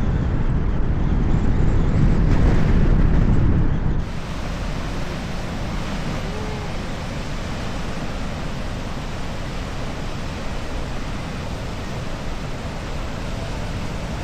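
Atlantic surf breaking: a loud, deep rumbling surge for the first four seconds that drops suddenly, then a steady wash of waves.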